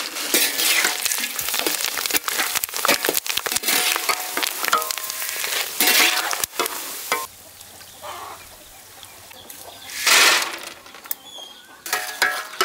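Sun-dried turkey berries frying in hot oil in a pan, a dense crackling sizzle that quietens after about seven seconds, with a brief louder burst around ten seconds in.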